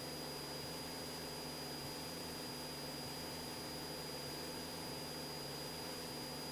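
Cessna 172SP's four-cylinder Lycoming engine and propeller droning steadily in flight, heard faintly, with an even hiss and a thin steady high whine above it.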